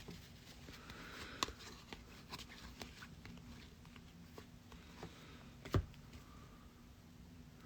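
Faint handling of trading cards: soft scattered clicks and taps, with a sharper tap about a second and a half in and a louder one near six seconds.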